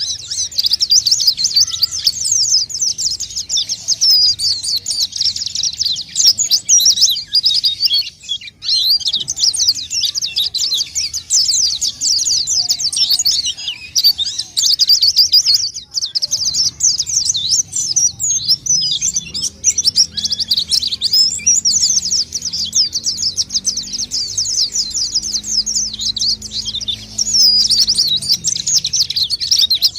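A white-eye (pleci) singing hard: a fast, unbroken high-pitched twittering chatter, with one short break about eight seconds in.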